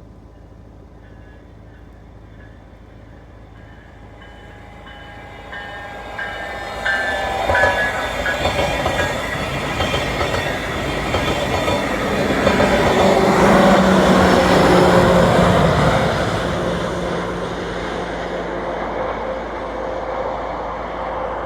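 A VIA Rail passenger train with a Siemens Charger diesel-electric locomotive approaching and running by, growing louder to a peak about two-thirds of the way through and then fading as it passes.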